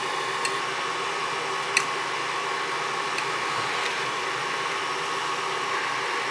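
Hot air rework station blowing steadily, a fan hiss with a faint steady whine, heating a 5730 SMD LED on an LED strip at a medium temperature setting so that it can be lifted off with tweezers. A few light ticks sound over it, the clearest about two seconds in.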